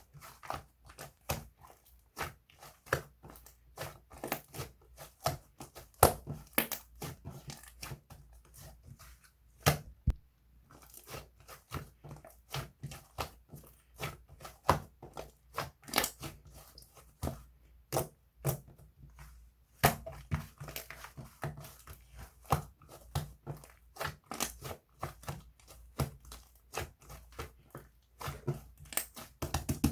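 Dense, irregular crackling and crinkling at close range, many small clicks with a few louder snaps scattered through, like a crunchy or crinkly material being squeezed and pulled by hand.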